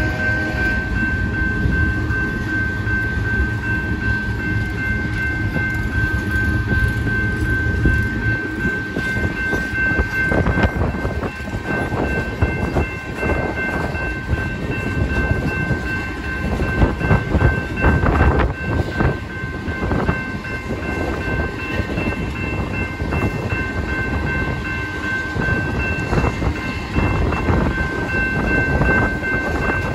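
Freight train of tank cars rolling past at a grade crossing: steady wheel rumble with irregular clanks and clacks over the rail joints, busiest in the middle stretch, and a steady high ringing tone running over it.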